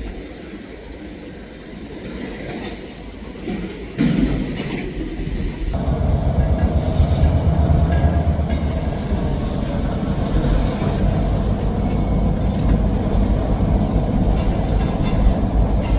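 Diesel freight train passing: a low locomotive rumble that steps up suddenly about four seconds in and grows louder and steady from about six seconds in.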